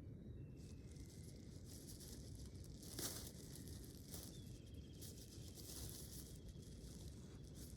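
Quiet outdoor ambience: a low rumble with scattered crackling rustles, the sharpest about three seconds in, over a faint thin high tone.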